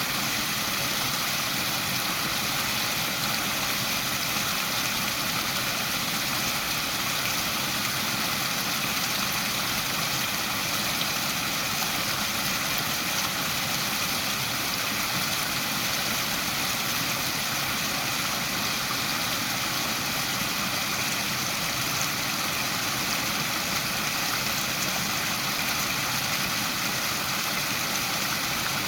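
Waterfall: falling water running with a steady, unbroken hiss.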